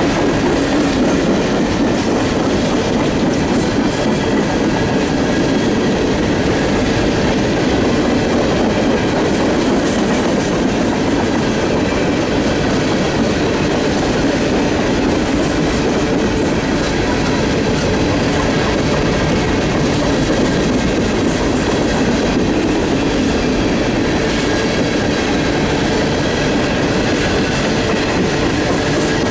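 Norfolk Southern train 591 rolling past at steady speed: the steady noise of steel wheels on rail.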